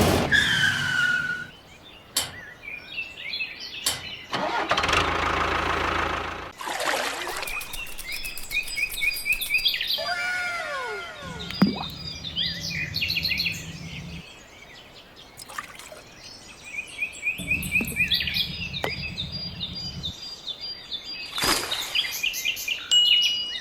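Birds chirping in short repeated calls, with a low mechanical hum that starts and stops in stretches of two or three seconds, three times. A falling, swooping sound about ten seconds in.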